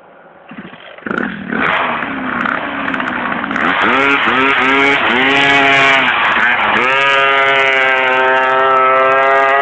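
Minimoto (pocket bike) with a small two-stroke engine revving hard. Its pitch rises and falls several times in quick succession, then holds at a steady high pitch for the last few seconds.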